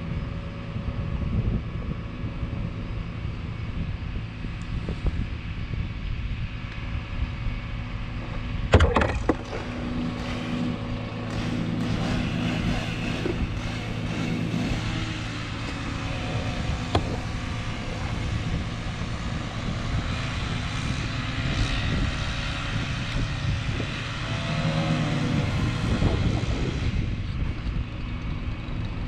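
Bucket truck's engine running steadily, with a single sharp crack or bang about nine seconds in and a long stretch of rougher, crackling noise after it.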